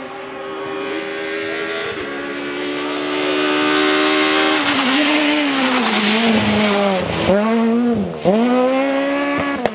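Rally car engine at full throttle as the car comes through the stage, getting louder and climbing in pitch, with an upshift about two seconds in. In the second half the engine note dips sharply several times as the driver lifts and shifts through the corner, with a couple of short sharp bangs, then it pulls away again.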